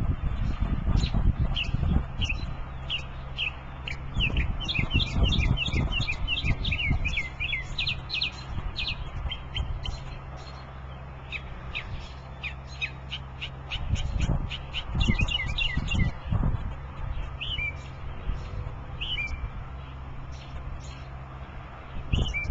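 A small bird chirping over and over, short high chirps coming in quick runs, over an irregular low rumble.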